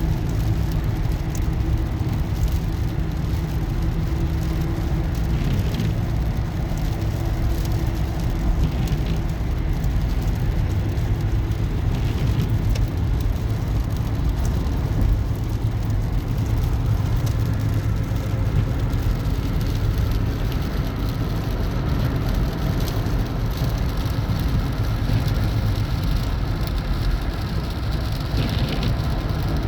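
Steady road and engine noise heard from inside a moving car, a constant low rumble with a hiss of tyres on the road.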